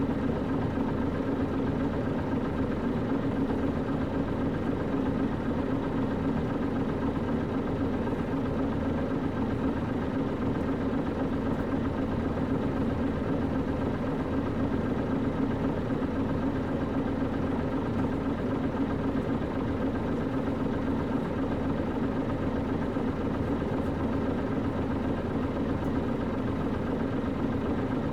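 Nissan Diesel KC-UA460LSN bus with its PG6 diesel engine running steadily, heard from inside the bus.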